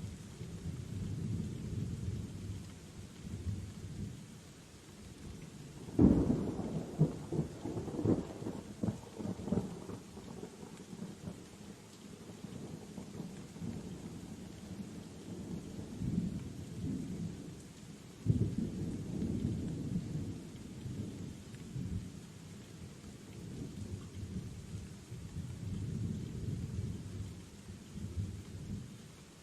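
Thunderstorm: a low rolling rumble of thunder over steady rain. Thunder cracks sharply about six seconds in and again around eighteen seconds, each rumbling on and fading over several seconds.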